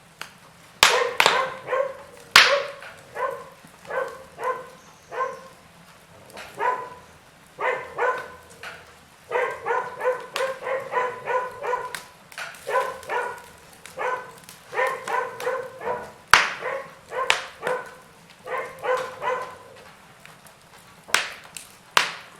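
Log fire crackling, with a handful of sharp pops, over runs of short pitched yelping calls repeated several times a second in bursts throughout.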